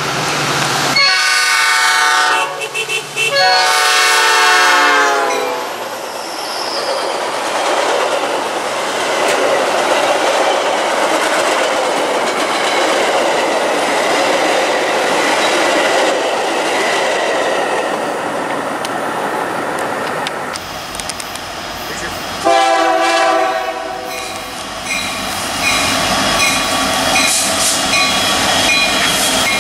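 A Metra diesel commuter locomotive sounds its multi-note air horn twice as it approaches, then its bilevel passenger cars rush and clack past. After an abrupt change about two-thirds of the way in, a Union Pacific freight's diesel locomotive gives a short horn blast and its locomotives run past.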